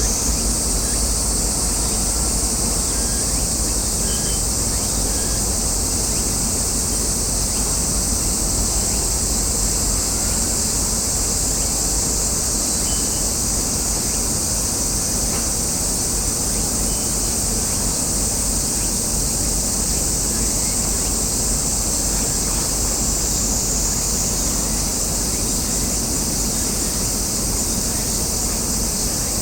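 Cicadas droning in a steady, even high-pitched chorus over a constant low rumble.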